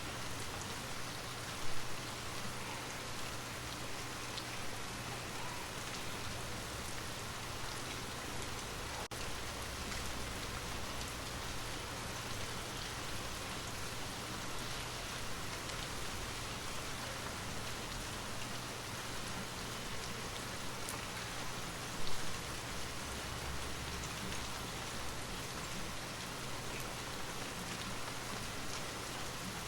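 Steady rain falling, an even hiss of rain on surfaces. Twice, about two seconds in and again near the 22-second mark, there is a brief louder low rumble.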